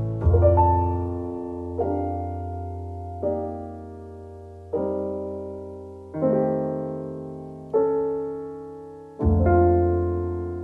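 Solo piano music: slow chords, a new one struck about every second and a half and left to ring and fade.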